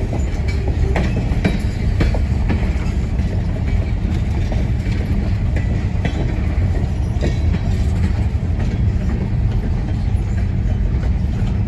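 Norfolk Southern coal train of hopper cars rolling slowly past, a steady low rumble with scattered wheel clicks and clanks.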